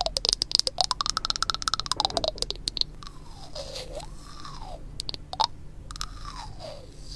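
Stones rubbed against each other, grinding back and forth with a gritty crackle. The strokes come fast for about the first three seconds, then slower with scattered sharp clicks.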